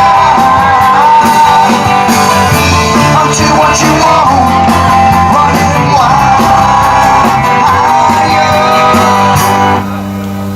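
Live rock band playing, its lead line bending in pitch. The band stops abruptly near the end, leaving a steady low hum.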